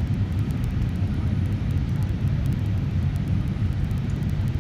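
Steady low rumble of an airliner's cabin on approach to landing: engine and airflow noise heard from inside the cabin, even and unbroken.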